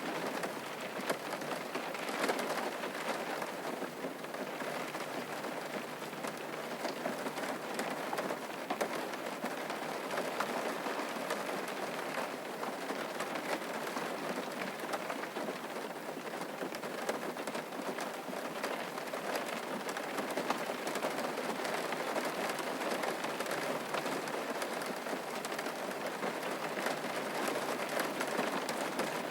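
Steady rain falling on a surface, a dense patter of many small drops.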